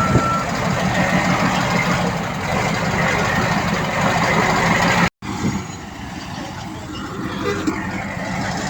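Diesel engine of heavy earthmoving machinery running hard, with one reversing-alarm beep at the start. The sound cuts out abruptly about five seconds in and comes back with the machinery quieter.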